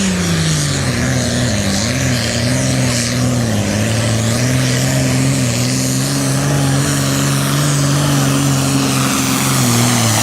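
Super Farm class pulling tractor's turbocharged diesel engine running hard under load down the track. Its pitch drops sharply in the first second as the engine lugs down, then holds fairly steady with small wavers.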